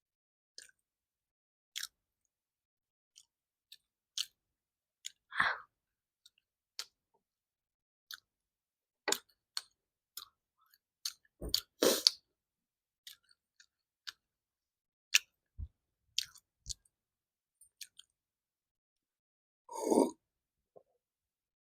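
Close-miked eating sounds of a person chewing matar paneer with puri: scattered short, wet mouth clicks and smacks separated by silence, with a few longer, louder chewing bursts.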